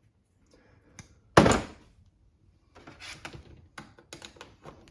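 One heavy metal thunk about a second and a half in, then a run of light, irregular clinks and clatter: differential parts and tools being handled on a workbench.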